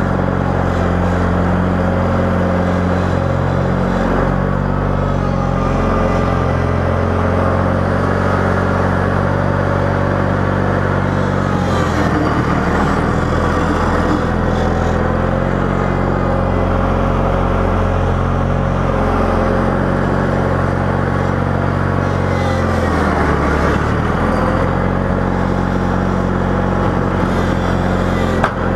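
Small tractor engine running steadily while plowing snow, its pitch dipping briefly about twelve and again about twenty-three seconds in.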